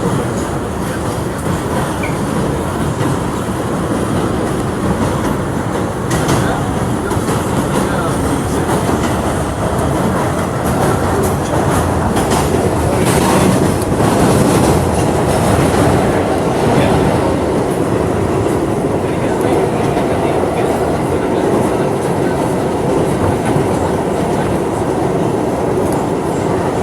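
R211 subway train running between stations: a steady loud rumble of wheels and traction motors, with occasional clicks over the rail joints. It grows a little louder around the middle.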